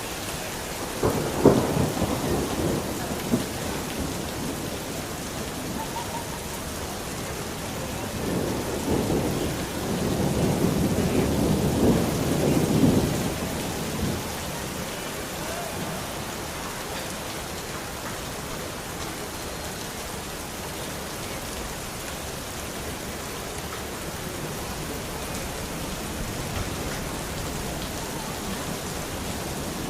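Steady rain with two rolls of thunder: a sharp clap about a second in that rumbles away over a couple of seconds, then a longer low rumble that builds and fades between about 8 and 14 seconds.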